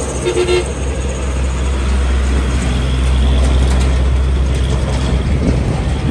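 Heavy diesel vehicle's engine running with a steady low drone as it passes, with a short two-tone horn toot about half a second in.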